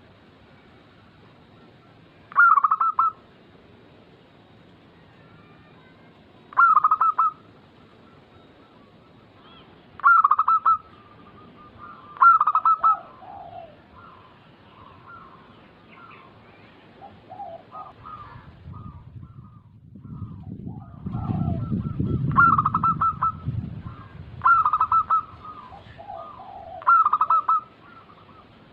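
Zebra doves (perkutut) cooing: a series of short, rapid stuttering coos repeated every few seconds, with softer calls between. A low rumble comes in around the middle.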